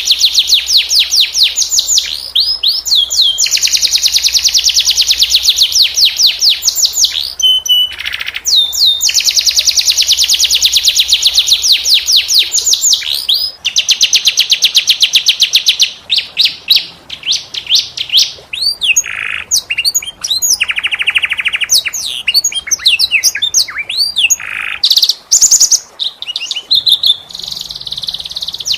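Domestic canary singing: long rapid rolling trills of quickly repeated high notes, changing to shorter, choppier phrases of varied notes about halfway through.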